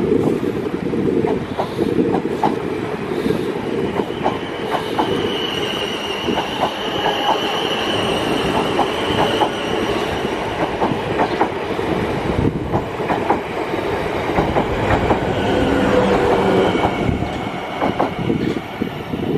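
A passenger train running along the platform, its wheels clicking repeatedly over rail joints. A thin wheel squeal comes in from about five seconds in to about ten.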